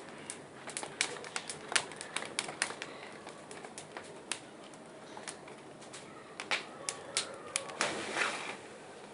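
Large bonfire of burning branches crackling, with irregular sharp pops and snaps over a low hiss, as the fire flares up and grows stronger.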